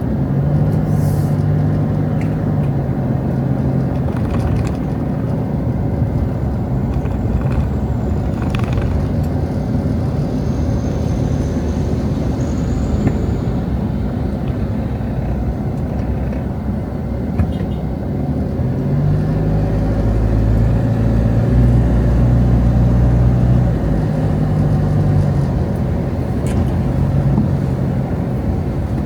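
Road traffic: cars driving past with a steady low rumble of engines and tyres, one vehicle's engine hum growing louder for several seconds about two-thirds of the way through.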